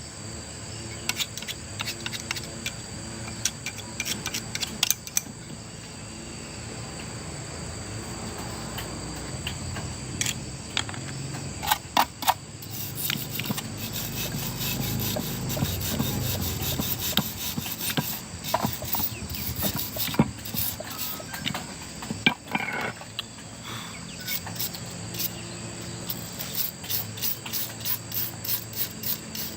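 Hand-tool work on a machine: scattered clicks, knocks and scraping, with a run of regular clicking, about three a second, near the end. A steady high insect-like drone sits underneath.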